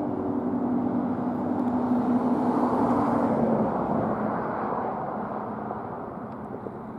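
Seagrave Marauder II fire engine's diesel engine and tyres passing by, growing to its loudest about two to three seconds in and then slowly fading.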